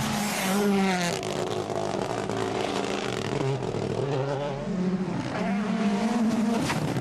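Rally car engine revving hard, its pitch climbing and dropping several times as it goes through the gears.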